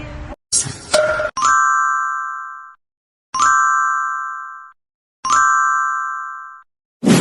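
Three identical electronic chime dings, each ringing for over a second and fading out, about two seconds apart, after a brief noisy swish. A sudden loud noisy burst starts at the very end.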